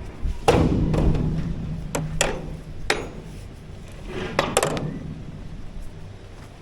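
Sharp metal clanks and knocks from work on a grain auger being set up: the loudest about half a second in, two more around two to three seconds, and a quick cluster about four and a half seconds in, over a steady low hum.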